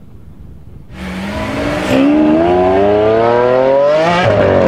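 Audi RS3 sedan with the ABT RS3-R package, its turbocharged five-cylinder engine accelerating hard. About a second in the engine note starts and climbs steadily in pitch, then drops sharply at a gear change near the end before pulling again.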